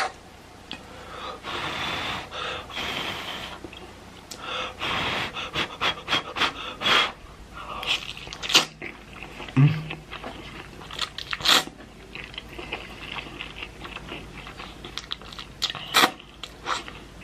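Close-up eating sounds of spicy instant ramen noodles: a stretch of slurping or breathy noise early on, then many short wet smacks and clicks of chewing, with hard breathing from the heat of the spice.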